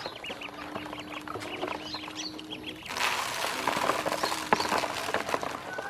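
Ducklings peeping rapidly in many short, repeated calls over a steady low hum. About halfway through, a louder rustling, clicking noise joins them.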